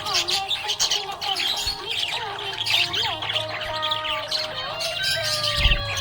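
Budgerigars chattering with a dense run of rapid chirps and squawks, with longer warbled notes and a brief low thump near the end.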